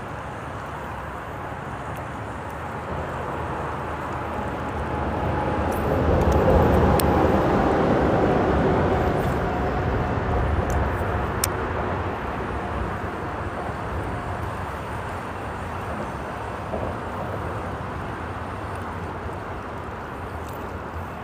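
Freeway traffic on the bridge overhead, a steady rumble that swells for several seconds about a third of the way in as a vehicle passes, over the rush of a small stream.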